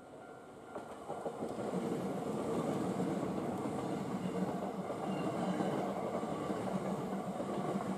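Hankyu electric train passing close by, its wheels running over the rails. The sound swells about a second in and then stays loud and steady as the cars go past.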